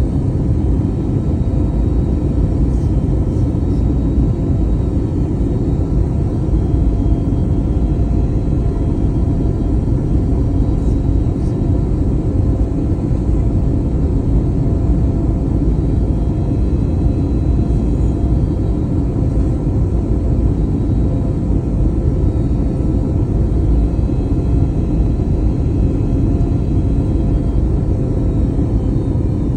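Airbus A321neo in flight, heard from inside the cabin: a steady, loud low rumble of engines and airflow with faint constant whining tones above it, unchanging throughout.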